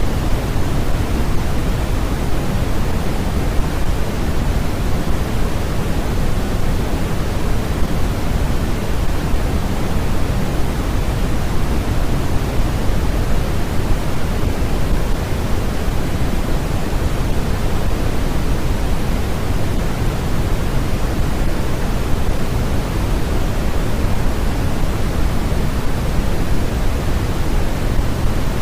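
Continuous generated noise, a steady, even rush with no changes. It carries more weight in the low end than in the highs, closer to pink noise than to flat white noise.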